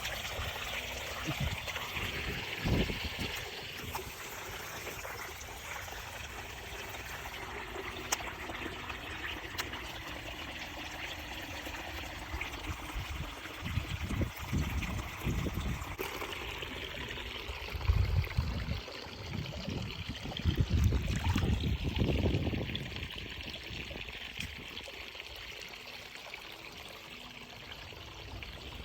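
Seawater trickling and lapping. A few louder low rumbles come about halfway through and again a few seconds later.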